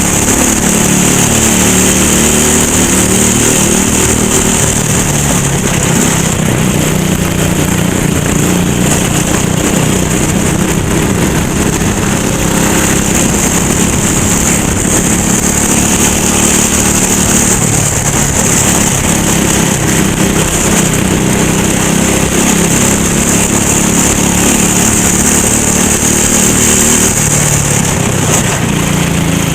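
Racing kart engine running hard, its revs rising and falling continuously as it is driven through corners and straights, with a steady high hiss over it.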